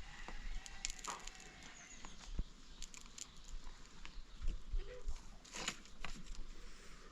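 Scattered clicks and knocks over low background noise, with a few brief, faint animal calls.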